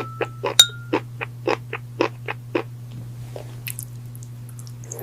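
Rapid hard taps and clinks of glass, some ringing briefly with a clear tone, about three a second, thinning out about halfway through and picking up again near the end. A steady low hum runs underneath.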